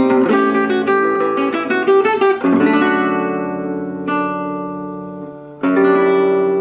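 Solo acoustic guitar music. Quick plucked notes give way to a chord left ringing and fading, a single note, and another chord struck near the end.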